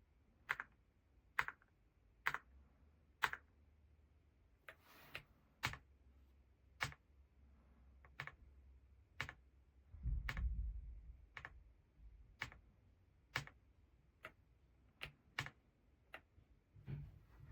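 Keys of an EPOMAKER x Aula F99 mechanical keyboard with Graywood V3 switches pressed one at a time, a sharp click about once a second. A dull low thump comes about ten seconds in.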